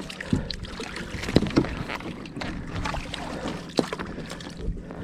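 Gear being handled on a kayak: scattered knocks and clatter against the hull over a steady background rush.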